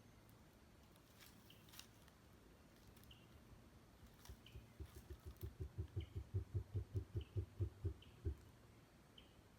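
Southern cassowary giving its deep grunting call: a rapid run of low pulses, about four a second, that grows louder and then stops short.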